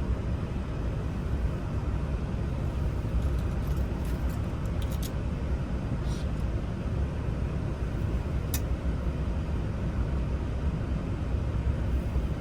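Steady low rumble of a vehicle engine running, with a few faint light clicks of small lock parts being handled.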